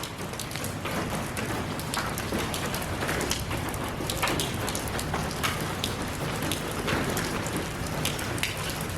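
Steady rain falling, with many individual drops ticking sharply on a hard surface through a dense, even hiss.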